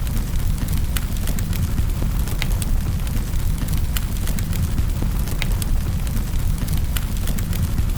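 Wood fire burning in a fireplace, crackling and popping with many sharp, irregular snaps over a steady low rumble.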